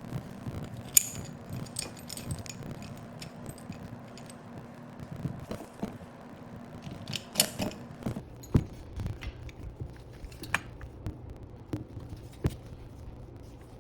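Irregular clicks and light metallic clinks of small metal parts and tools being handled, over a steady low hum.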